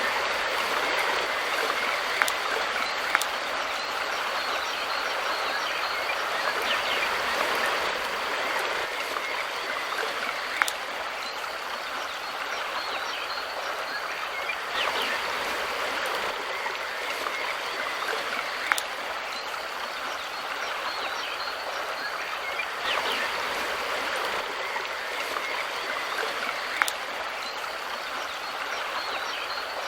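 Mountain river flowing: a steady rush of running water, with a few short, sharp clicks scattered through it.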